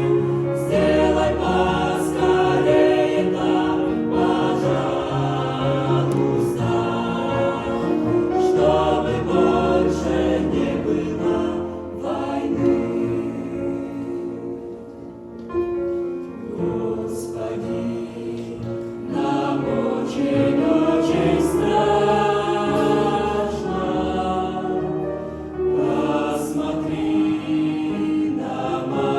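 Choral music: a choir singing with sustained, held chords, growing softer for a few seconds midway before swelling again.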